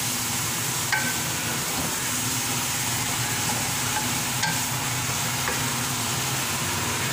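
Keema and chopped tomatoes sizzling in a metal pot while a spatula stirs and scrapes through them, with a few sharp clicks of the spatula against the pot.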